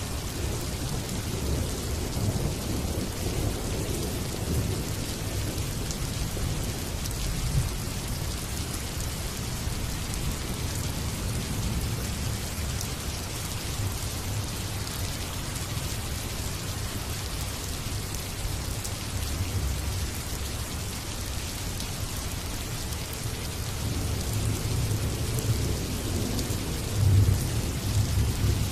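Steady rain falling, with a low rumble of thunder rolling underneath that builds and peaks near the end.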